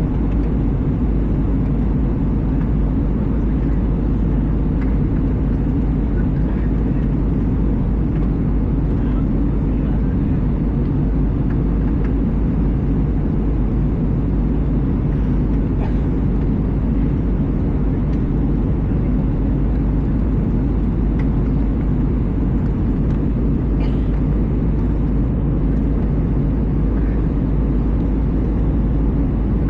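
Steady cabin noise inside an Airbus A320: the even, low rumble of the engines and the airflow along the fuselage, unchanging throughout.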